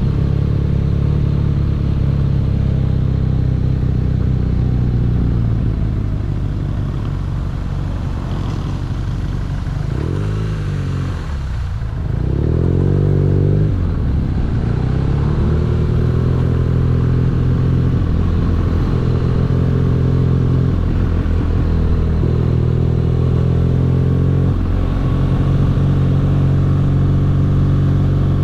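BMW R nineT's boxer twin engine running while riding, its pitch stepping several times as it changes gear; about ten seconds in the revs drop and then climb again.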